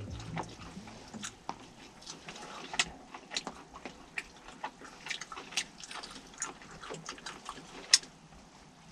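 Irregular small clicks and taps, a few a second, with one sharper click near the end.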